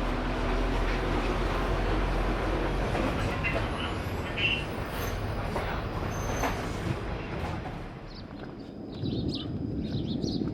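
Motorbike engine running with wind and road rumble while riding. About eight seconds in it gives way to a quieter background with short high chirps.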